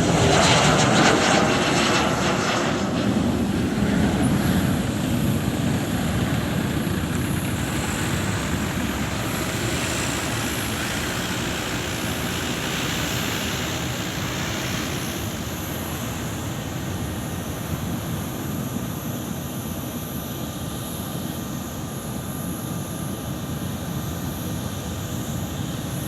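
Boeing 737 freighter's jet engines at takeoff power as it climbs away after lift-off, a steady noise that slowly fades.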